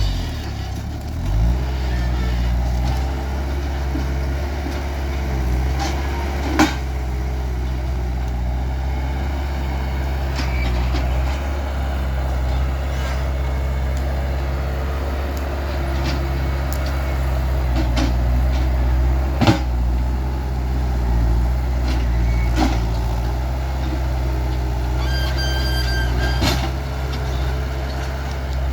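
Skid steer loader's diesel engine running steadily, with a brief dip in engine speed about a second in. Sharp clanks come now and then, and there is a run of short beeps near the end.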